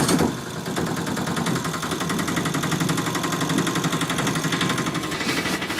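A small vehicle engine running steadily just after starting, with a fast, even putter throughout.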